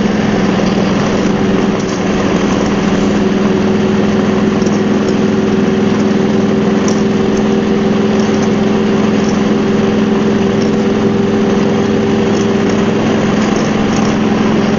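Harley-Davidson Road Glide's V-twin engine running at a steady cruising speed, its pitch holding level, over a steady rushing noise.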